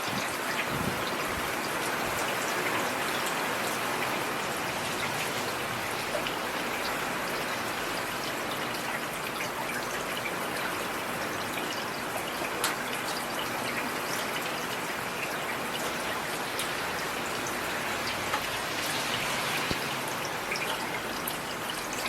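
Heavy rain falling steadily: a dense, even hiss of rain with single drops ticking sharply now and then, one louder tick a little past halfway.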